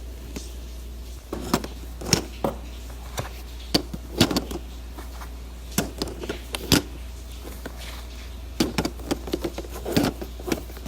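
Household objects being handled and set down: a run of irregular knocks and clicks, busiest near the end, over a steady low hum.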